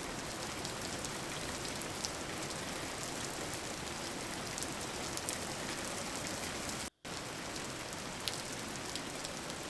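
Steady rain falling, an even hiss with scattered sharp drop ticks. The rain cuts out for a split second about seven seconds in, then resumes.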